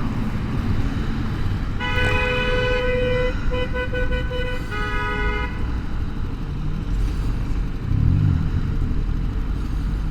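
A vehicle horn honks in traffic over the steady low rumble of a motorcycle ride. There is one long honk about two seconds in, then several quick toots, then a shorter honk.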